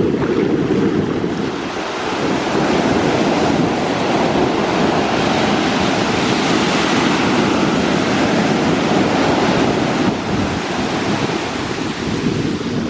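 Atlantic Ocean surf breaking and washing on the beach, a steady rushing, with wind buffeting the microphone. The wash swells through the middle and eases a little near the end.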